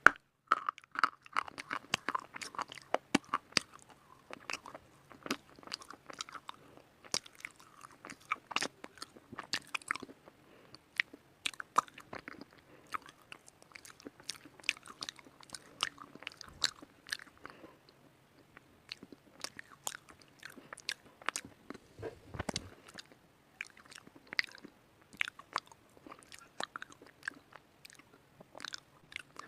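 A person biting and chewing white slate close to the microphone: many sharp, irregular crunches and crackles as the chalky pieces break between the teeth.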